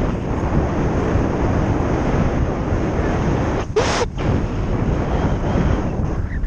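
Wind rushing and buffeting over the microphone of a moving electric motorcycle, a steady loud rumble, with a brief sharp hiss about four seconds in.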